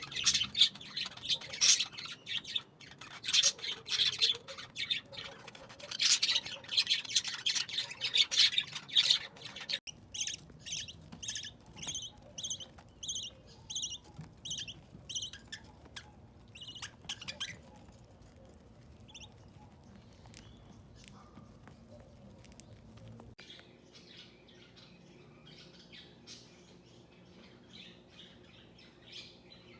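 Budgerigar chicks chirping and squawking, loud and dense at first. After a cut about ten seconds in comes a run of evenly spaced chirps, about two a second, which gives way to softer, quieter chirping.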